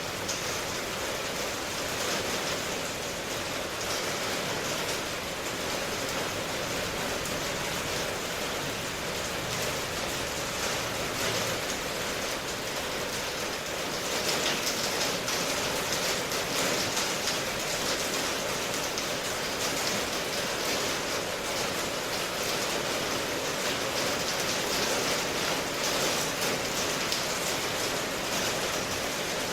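Steady rainfall ambience, a dense even hiss of rain with fine patter, growing a little louder about halfway through.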